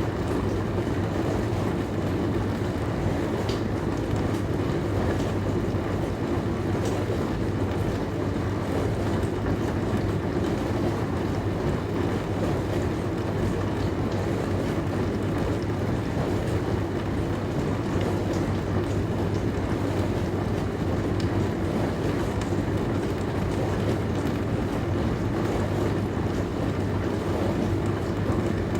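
Dishwasher running: a steady low motor hum under an even wash of water noise, with a few faint clicks.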